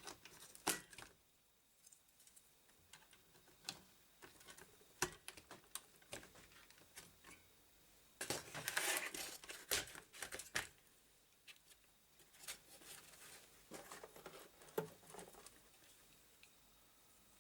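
Hands fitting two memory sticks (RAM modules) into a computer motherboard: scattered sharp clicks and taps of plastic and metal parts. About halfway through there is a denser stretch of rustling and scraping.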